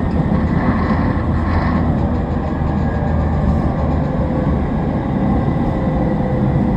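Toei Shinjuku Line 10-300 series electric train running at steady speed, heard from inside the car: a continuous rumble of wheels on rail and running gear.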